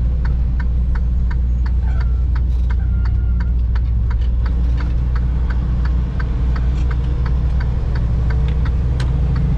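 Semi truck's diesel engine running with a steady low rumble heard from inside the cab, with the turn signal clicking evenly about twice a second for a left turn.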